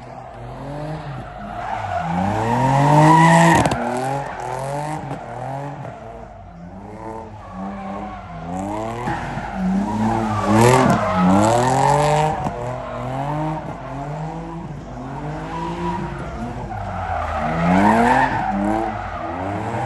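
A Mercedes-AMG being driven in stunts: its engine revs up and drops back again and again while its tyres squeal and skid on the pavement. The revving is loudest about three seconds in, around eleven seconds in, and near the end.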